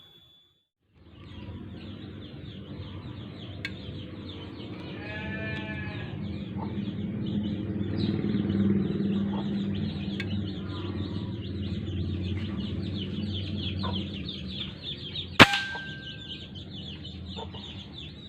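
Outdoor ambience of dense high chirring, a steady low hum and farm animal calls, including one drawn-out call around five seconds in. About fifteen seconds in comes a single sharp crack, the loudest sound, an air rifle shot.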